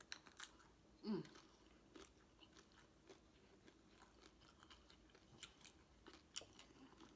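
Faint close-miked chewing: soft, scattered wet mouth clicks as food is eaten, with a short low sound falling in pitch about a second in.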